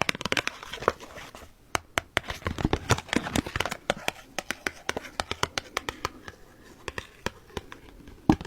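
Hands handling and tapping cards: quick, irregular sharp taps and clicks with some crinkling and scratching.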